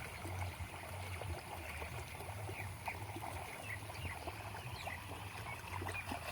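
Irrigation water running and trickling through a field channel, with a low steady hum underneath and small birds chirping briefly again and again.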